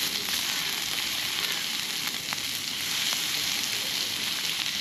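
Ribeye steak sizzling on a camp grill over an open fire: a steady frying hiss with a few faint pops.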